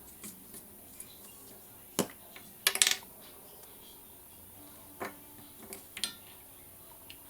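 Small hard craft tools and supplies being handled and set down on a work table: scattered clicks and knocks, with a brief clattering rattle about three seconds in.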